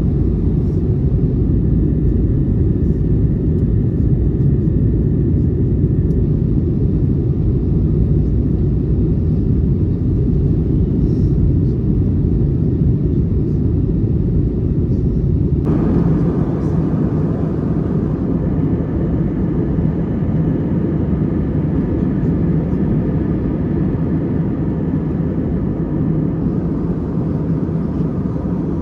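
Steady cabin noise of an Airbus A321neo in flight, a low, even rush of airflow and engine sound. About halfway through it changes abruptly to a brighter, fuller hiss.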